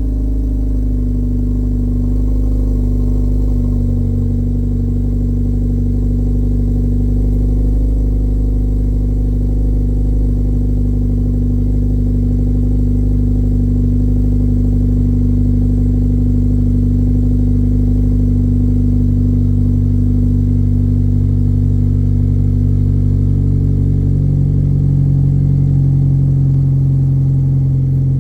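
2024 Kia Forte GT Line's 2.0-litre four-cylinder, its muffler deleted, at a steady fast idle just after a cold start, with a loud, deep exhaust tone. Near the end the idle drops a little in pitch as the engine settles.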